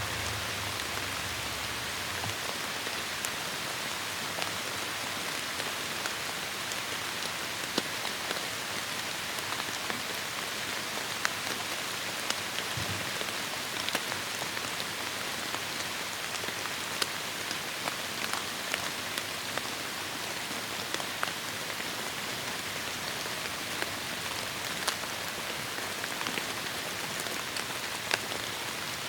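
Heavy rain falling in a forest: a steady hiss of rainfall with many close, sharp drop hits scattered through it.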